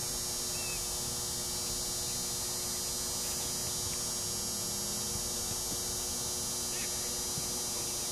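Steady background noise with a constant low hum. A few faint, brief calls are in the distance.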